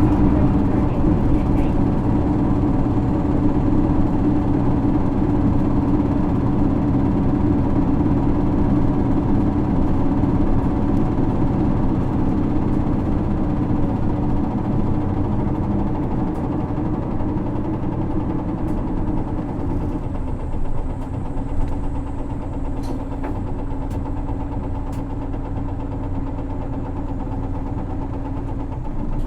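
Isuzu Erga (PKG-LV234L2) city bus's 6HK1 inline-six diesel engine running, heard from inside the bus, with a steady engine drone that settles lower and quieter about twenty seconds in.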